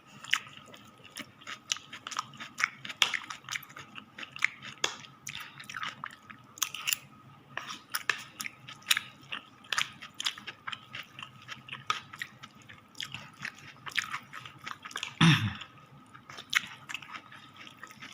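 Close-up chewing of a sweet potato leaf salad with garlic, onion and tomato: many short, irregular wet clicks and crunches of mouthfuls being chewed. A brief low vocal sound about 15 seconds in.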